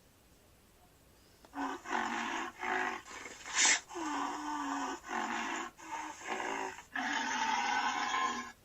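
Rhinoceros calling in a run of loud, rough calls with short gaps between them, starting about a second and a half in, with a sharp click near the middle.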